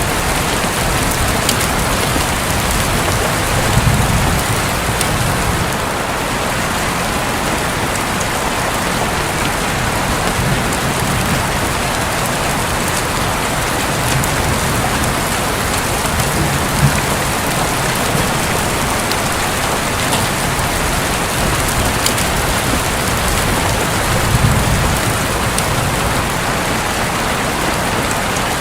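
Steady heavy rain falling on a roof, with single drops ticking through it. Soft low rumbles of distant thunder swell up about three times.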